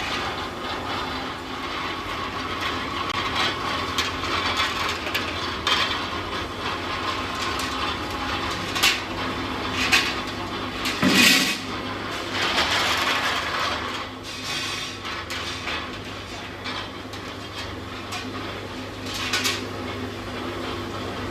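Workshop machinery noise: a steady machine hum with scattered metallic clanks and knocks, the loudest a little past the middle.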